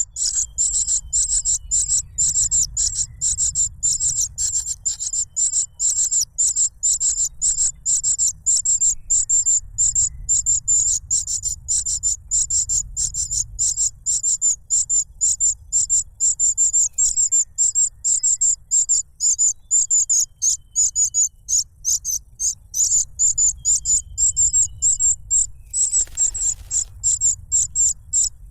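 Cuckoo chick begging for food: a rapid, unbroken run of high-pitched calls, about three to four a second. A brief rustle sounds near the end.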